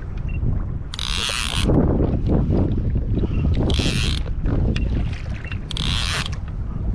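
Kayak on open water: wind buffeting the microphone with water sloshing against the hull, and a short hiss of splashing water about every two to three seconds.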